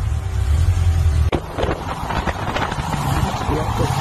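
Box-body Chevrolet Caprice's engine and exhaust running as the car moves, with wind on the microphone. A heavy low throb in the first second breaks off abruptly, then gives way to a noisier wind-blown engine sound.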